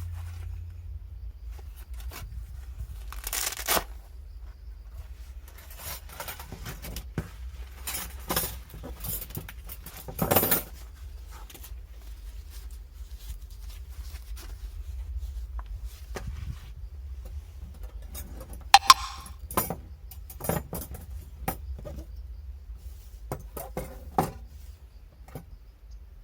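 Objects being handled: scattered rustles, clicks and light clinks over a steady low hum.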